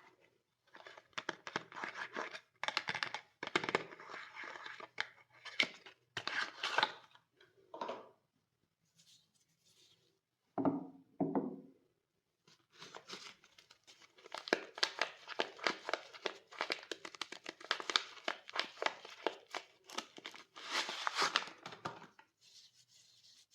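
Soap packaging being opened by hand: wrappers crinkling and tearing in short spurts, then a longer stretch of steady crinkling in the second half, with a short dull handling sound in a brief pause near the middle.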